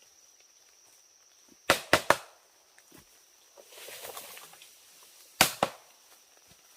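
Blade chopping into wood: three quick strikes about two seconds in, a brief rustle, then two more strikes near the end.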